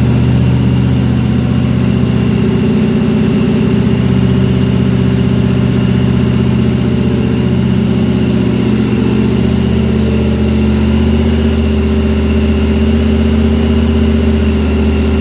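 1932 Ford rat rod's engine idling steadily, a low, even run that holds much the same pitch throughout.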